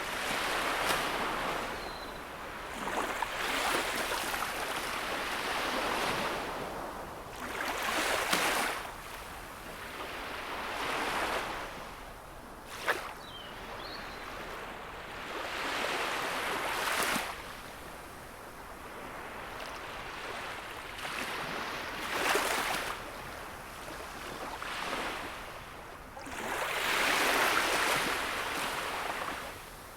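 Gentle sea waves breaking and washing up the shore, swelling and fading every few seconds. There is one sharp click about halfway through.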